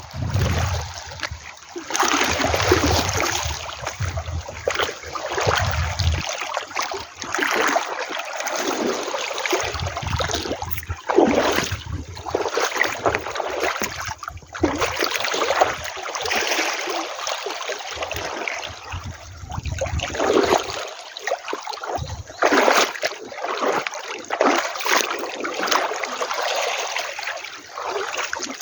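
Sea water washing and splashing at the shore, swelling and easing every few seconds.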